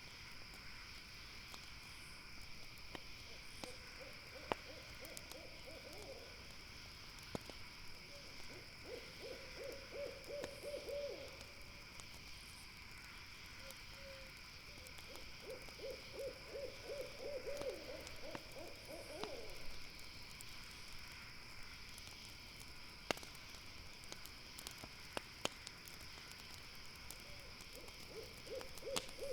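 An owl calls in four runs of rapid, quavering hoots over a steady high insect drone, with a few sharp crackling pops from a campfire.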